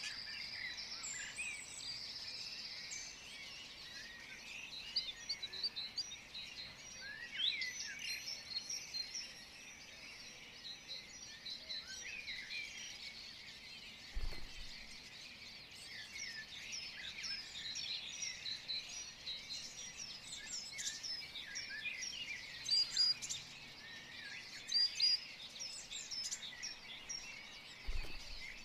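A chorus of many small birds chirping and twittering, short quick calls overlapping throughout, with a dull low thump about halfway through and another near the end.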